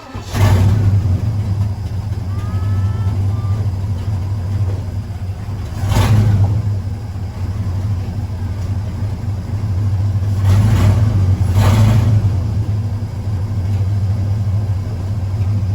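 Old 1961 Chevy Apache pickup's engine running with a steady low drone, swelling louder in brief revs about half a second in, around six seconds, and twice near eleven to twelve seconds.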